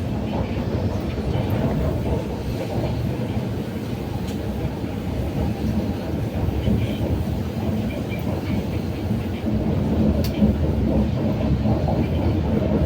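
MTR Kwun Tong line Q-train metro car running between stations, a steady rumble of wheels and motors heard from inside the car, with one sharp click about ten seconds in.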